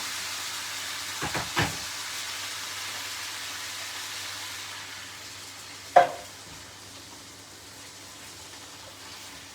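A stew pot of chicken wings, tomatoes and black beans sizzling after a splash of water goes in, the sizzle slowly dying down. There are a couple of light knocks about a second in, and one sharp clink about six seconds in.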